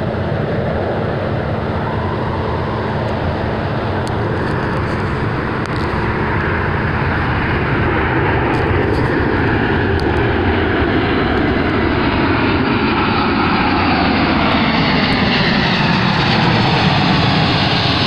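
Airplane engine noise from an aircraft on approach, a steady drone that grows gradually louder as it comes closer.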